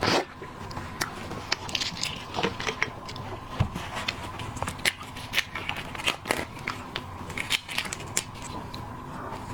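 Seafood shells being cracked and peeled by hand: irregular crackling and sharp little clicks, several a second.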